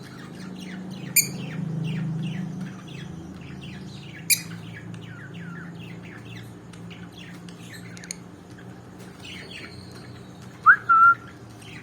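Pet parrot chirping in a rapid run of short falling chirps, with two sharp clicks about one and four seconds in. Near the end comes a rising whistled note, held briefly, over a low hum.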